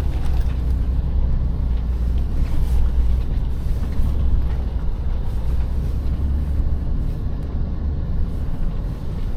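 Off-road 4x4 driving over a snowy trail, its engine and tyres making a steady low rumble.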